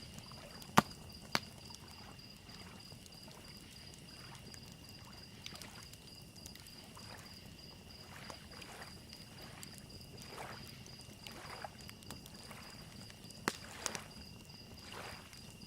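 Small lake waves lapping softly on a shoreline over and over, with crickets chirping steadily in a high continuous trill. A campfire crackles under them, giving a few sharp pops about a second in and again near the end.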